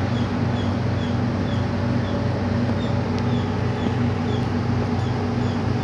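Steady low mechanical drone of idling machinery, an engine or a large motor, with a slight regular pulsing. A short high chirp repeats evenly about two or three times a second over it.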